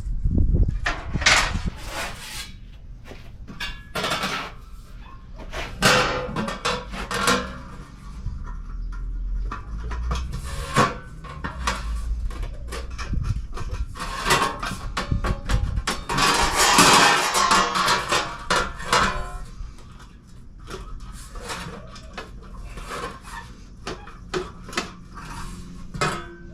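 Irregular hammer knocks and metal taps on sheet steel as it is bent and shaped for a fender, with a longer, denser stretch of noisy metalwork a little past halfway through.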